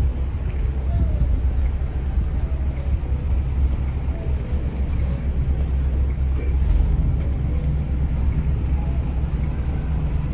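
Steady low rumble of a river tourist boat's engine while the boat is underway, with faint voices in the background.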